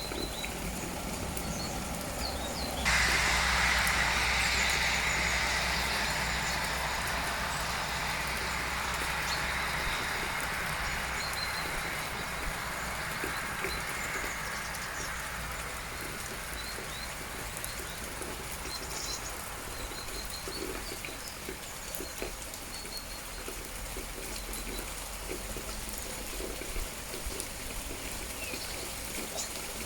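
Steady rain with dripping and a few short bird chirps. About three seconds in, a louder rushing hiss starts abruptly, then fades slowly over the next ten seconds or so.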